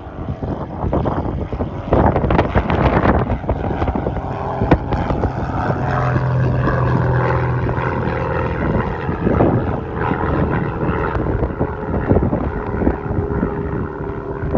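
Light propeller plane's piston engine running, with wind buffeting the microphone.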